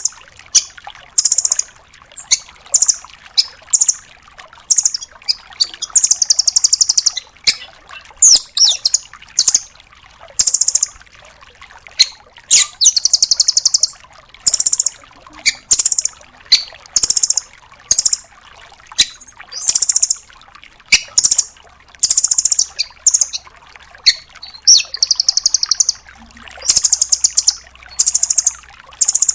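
Velvet-fronted nuthatch (rambatan doraemon) calling in quick bursts of rapid, high-pitched trilled notes, one burst after another, with sharp single chips between them.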